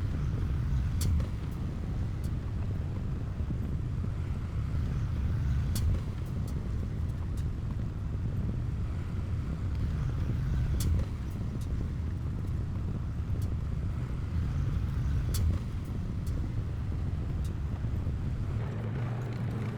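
Heavy earthmoving machinery's diesel engine running steadily with a low rumble, broken by a few sharp metallic clanks.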